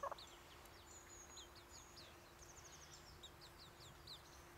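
Faint high bird chirping: many thin, short falling notes repeated quickly, with a brief lower call right at the start.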